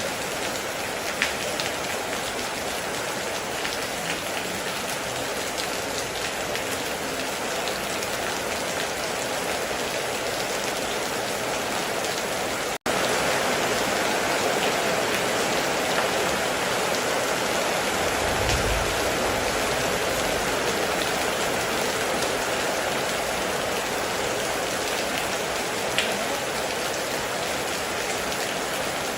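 Heavy rain falling in a steady dense hiss, with a few sharp drip ticks. The sound cuts out for an instant about thirteen seconds in and comes back slightly louder, and a short deep rumble follows a few seconds later.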